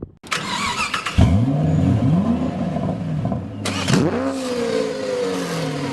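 Car engine revving sound effect from a produced intro: a hissing whoosh at the start, then the engine's pitch sweeps up hard about a second in and again near four seconds, over a steady hum.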